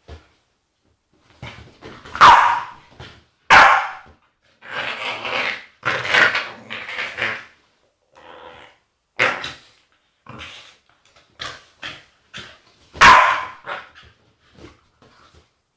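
Agitated Staffordshire bull terrier vocalising: loud single barks about two seconds in, near four seconds and about thirteen seconds in, with a run of longer, drawn-out growly noises from about five to seven seconds and smaller yips and grunts between.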